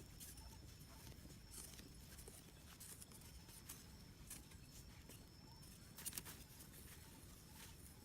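Near silence: faint background hiss with a few soft scattered clicks or rustles.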